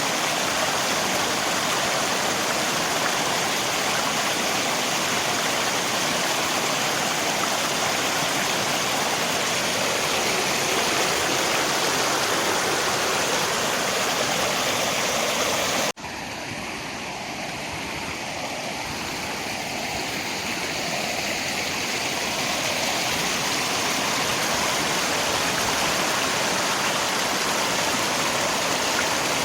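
River water rushing and rain falling, a steady dense wash of water noise. About halfway through it cuts out for an instant, comes back softer, and swells back to full level over several seconds.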